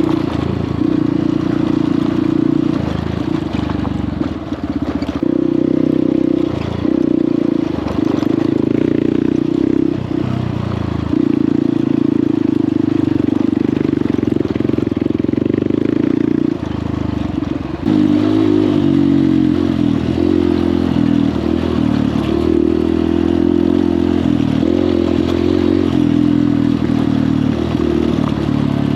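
Honda CRF150L dirt bike's single-cylinder four-stroke engine running under way, loud and steady, its note easing off briefly several times as the throttle closes and picking up again.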